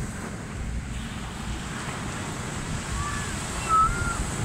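Ocean surf washing on the beach, with wind buffeting the microphone as a low rumble. A few short high squeals come about three seconds in.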